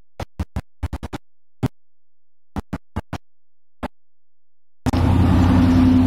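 Close-miked mouth sounds of chewing fried chicken: short, separate wet clicks with dead silence between them. Near the end a much louder, dense stretch lasts about a second.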